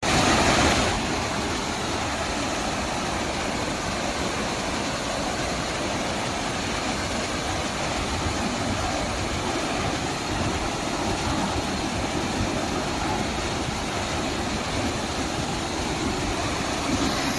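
Waterfall rushing: a steady, dense roar of falling water, a little louder for about the first second.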